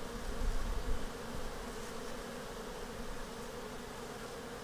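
Honeybees buzzing steadily around an open hive, a continuous hum of many bees.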